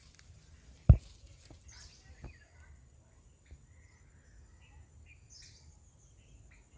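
Faint scattered bird chirps over a quiet rural background, with a sharp low thump about a second in and a smaller one a little after two seconds.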